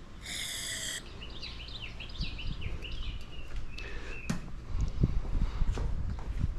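A short spray of aerosol brake cleaner, hissing for under a second, followed by birds chirping. Several dull knocks and handling noises follow near the end.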